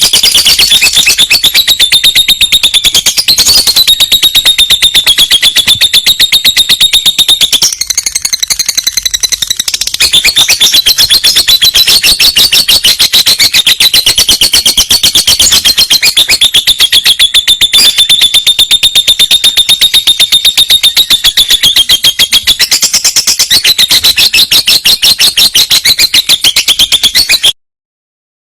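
Lovebird singing a long, unbroken trill: a fast, even run of high chirps that is briefly weaker about eight seconds in and cuts off suddenly near the end.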